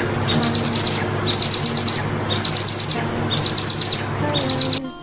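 Eagle chick calling: repeated bursts of rapid, high chittering chirps, about one burst a second. The calls stop suddenly near the end, where guitar music takes over.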